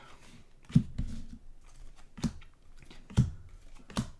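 Trading cards being flipped through by hand: four short taps and snaps of card on card, roughly a second apart, with a faint rustle between them.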